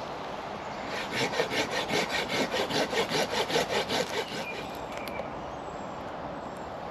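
Hand saw cutting through a dense branch with quick, even strokes, about six a second, starting about a second in and stopping after roughly three seconds.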